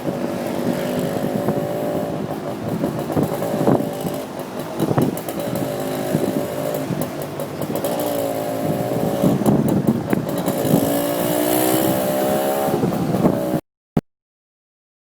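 Motorcycle taxi's engine running under the rider, its pitch rising each time it accelerates, over steady road and traffic noise. The sound cuts off suddenly near the end, leaving a single click.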